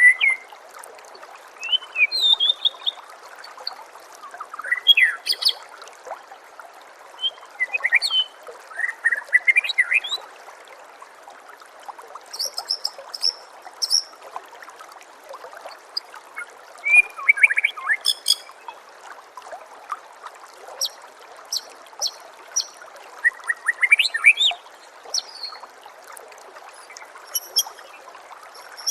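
White-rumped shama (murai batu) song: short whistled phrases that rise in pitch, and bursts of high rapid chatter, coming every few seconds. Underneath is a steady hiss of trickling water.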